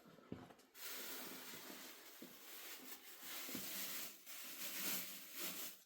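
A steady hiss that starts abruptly just under a second in and cuts off near the end, with a few soft low knocks.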